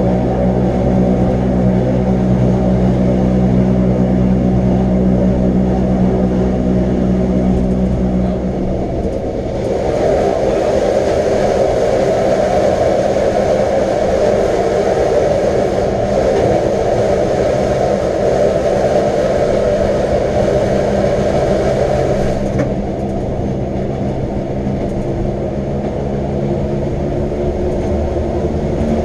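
Electric rack-railway train running: a steady motor hum for the first nine seconds or so, then a louder, rougher running noise from about ten seconds in that eases again after about twenty-two seconds.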